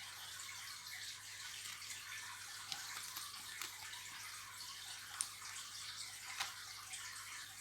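Faint steady hiss with a low hum underneath, broken by a few soft ticks.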